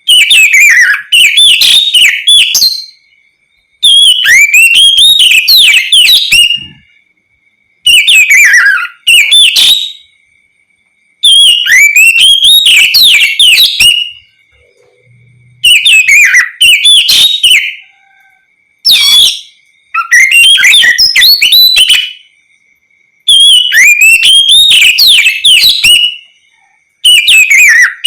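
Oriental magpie-robin (kacer) singing loud, clear whistled song in phrases of two to three seconds with short pauses between them, about eight phrases in all, each a rapid run of sweeping notes and trills.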